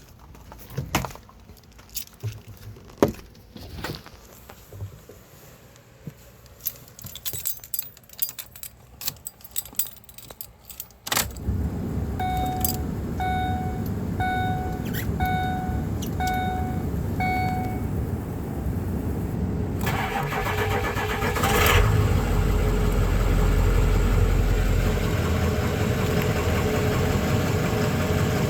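Scattered clicks and key jangling, then about 11 seconds in the 2005 Ford E350's 6.0 L Power Stroke turbo diesel V8 starts from cold and settles into a steady run. A chime beeps six times just after it starts, and the engine gets louder for a few seconds near the end.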